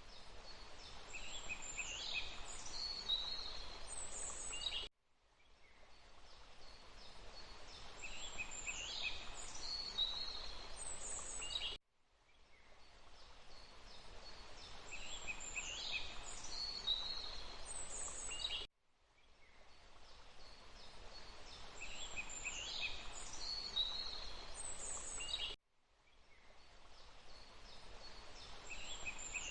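Birds calling over a steady rushing hiss, forest ambience played as a short loop. The same few seconds repeat about every seven seconds, each pass fading in and then cutting off abruptly.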